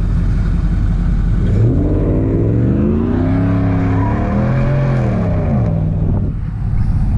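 A vehicle engine revs up over about a second and a half, holds high with some wavering, then drops back about four seconds after it began. A steady low engine rumble runs beneath it.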